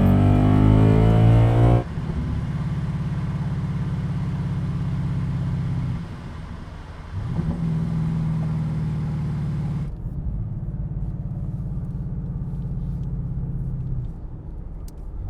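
Mustang GT 5.0 V8 through an MBRP Pro-Series Street Version stainless steel cat-back exhaust, revving up and cutting off sharply about two seconds in. It then settles into a steady, low exhaust note that dips briefly a couple of times.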